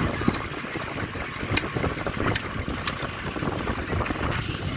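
Vintage stationary engines running, a low rumble with irregular sharp clicks and knocks over it.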